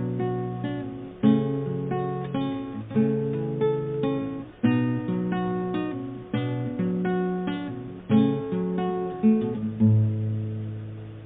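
Solo acoustic guitar playing an instrumental outro, chords struck and left to ring, fading out in the last couple of seconds.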